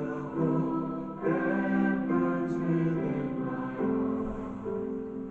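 Worship song with a choir singing over instrumental accompaniment, the notes held and changing about once a second.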